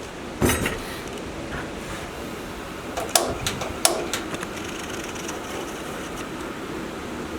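Several sharp knocks, one about half a second in and a few more between three and four seconds in, over a steady rushing background noise.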